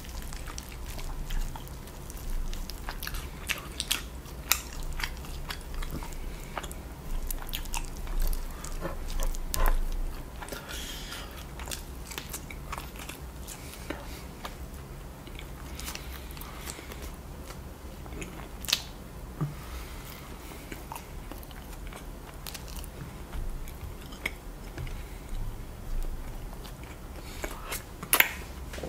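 Close-miked chewing and biting of sauce-soaked rotisserie chicken, with wet mouth clicks and smacks. They are busiest in the first ten seconds and sparser after.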